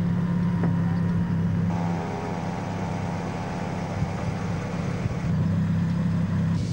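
Steady low engine hum and road noise of a moving motor vehicle, heard from inside it. The sound drops a little about two seconds in and comes back up a little after five seconds.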